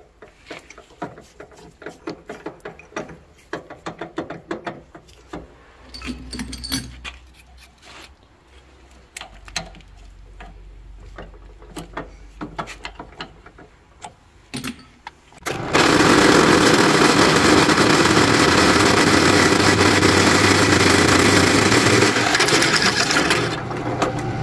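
Drill press boring a hole in steel plate. At first there are scattered light clicks and a low motor hum. About fifteen seconds in, a loud, harsh grinding noise starts suddenly and runs on for several seconds before easing slightly.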